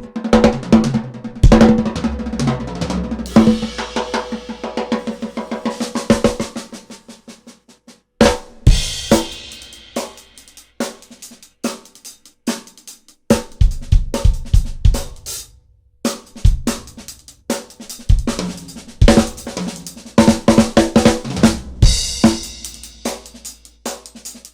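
Fast drum-kit-style beat of kick, snare and hi-hat hits with deep bass thumps, broken by short pauses about eight and sixteen seconds in.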